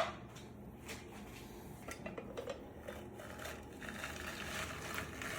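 Faint scattered clicks and creaks of a hand juice squeezer being pressed over pomegranate seeds, with a faint steady rustle building near the end.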